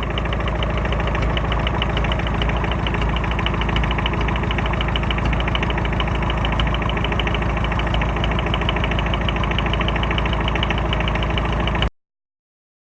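Tractor's Volkswagen 1.6 diesel engine idling steadily with an even, rapid diesel clatter. The sound cuts off suddenly near the end.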